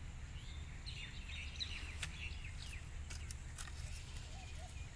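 Small birds chirping in short quick calls during the first half, over a steady low rumble of outdoor background noise, with a few faint scattered clicks.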